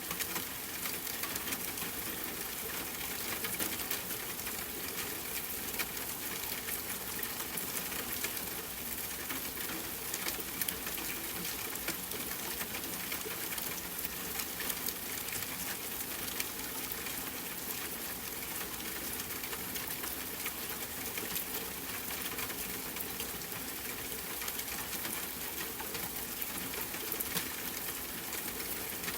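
Steady rain falling in a forest, with a campfire crackling lightly underneath: a continuous hiss dotted with many small ticks and pops.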